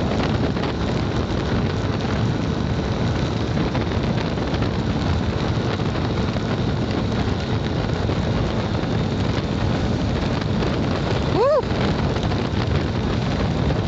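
Steady rush of wind and heavy rain on the microphone of a motorcycle riding through a downpour. A short tone rises and falls once near the end.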